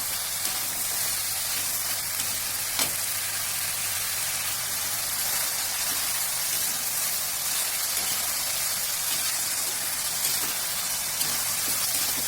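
Food frying in hot oil in a pan: a steady sizzle with a few sharp pops and spatters.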